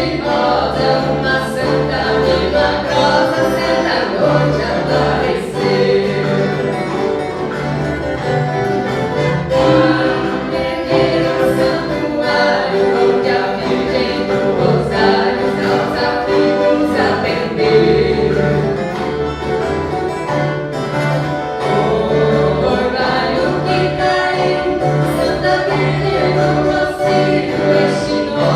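Viola caipira orchestra playing a Christmas song, with a group of voices singing together over the strings and a steady low bass underneath.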